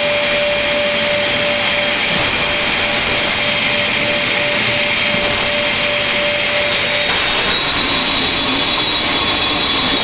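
Automatic MDF board-cutting machine running: a loud, steady noise carrying a steady whine. The whine drops out about seven seconds in, and a higher whine comes in soon after.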